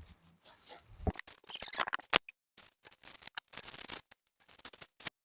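Close-miked scratchy crackles and clicks that keep cutting out to dead silence for moments at a time, the sound of a microphone failing and dropping in and out.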